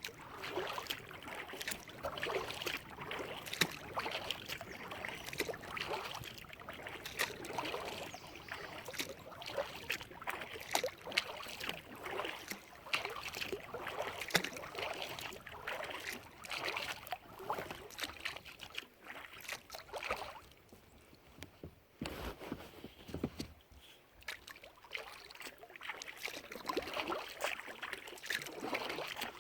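Kayak paddle strokes: the blades dip and splash in the water, with dripping and small knocks, in an uneven rhythm. The strokes ease into a quieter lull of a few seconds about two-thirds of the way through, then pick up again.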